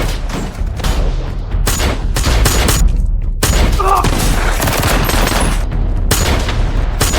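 Gunfire in a film gunfight: rapid volleys of shots, one after another, with a brief break a little after three seconds in.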